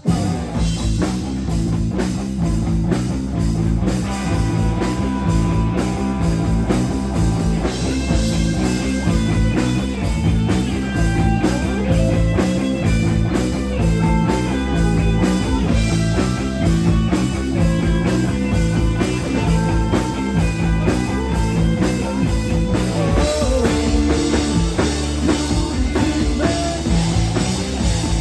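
Live rock band playing loud, with drum kit and electric guitar, starting abruptly after a brief pause.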